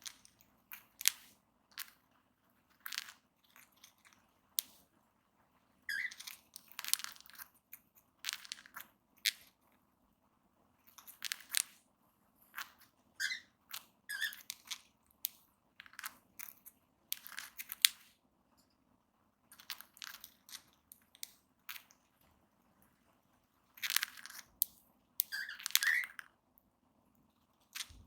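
Cockatiels grinding their beaks: irregular runs of soft rasping, crunching strokes with short pauses between them, and a few brief high squeaks. Beak grinding is the sound of a relaxed, contented cockatiel.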